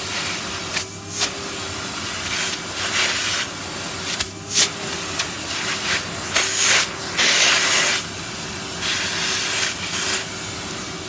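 Henry canister vacuum cleaner running, a steady motor hum under a suction hiss that swells and dips as the nozzle moves, dropping out briefly twice.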